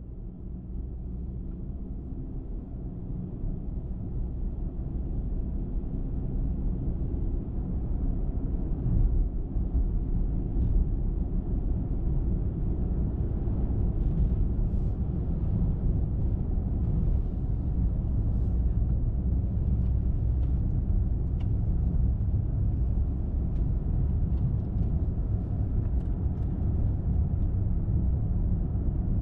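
Car driving on a highway: a steady low engine and tyre rumble that grows louder over the first eight seconds or so, then holds steady, with scattered faint ticks in the second half.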